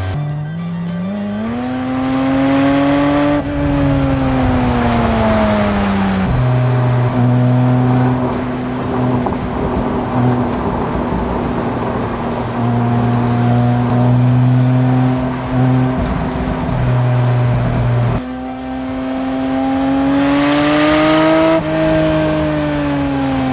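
Porsche 718 Spyder RS's 4.0-litre flat-six engine pulling up through the revs and easing off twice, once near the start and once near the end, with a steadier engine note in between.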